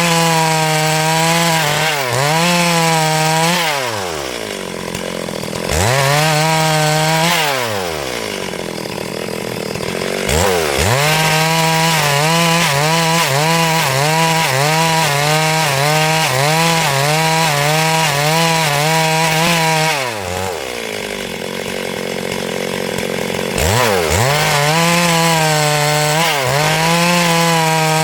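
Stihl MS382 two-stroke chainsaw ripping lengthwise through a hardwood log at full throttle, its engine note wavering under the load of the cut. It drops back to idle three times, about four, eight and twenty seconds in, and revs back up into the cut each time.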